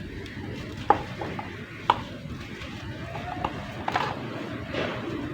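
Soft, dusty clay being crumbled and worked with water into a paste: steady wet handling noise with a few sharp clicks about one, two and four seconds in.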